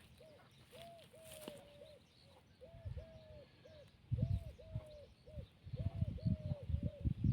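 A bird calling over and over in short, arched hooting notes grouped in twos and threes. Low rumbling bursts come in about four seconds in and are louder than the calls.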